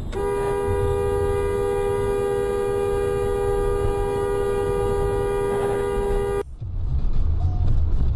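Car horn held down in one long steady blast of about six seconds, stopping abruptly; after it, low road and engine rumble.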